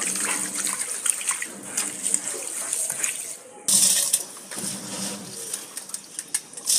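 Water running from a kitchen tap into a sink, a steady hiss that breaks off abruptly just past halfway and comes back louder. Faint voices underneath.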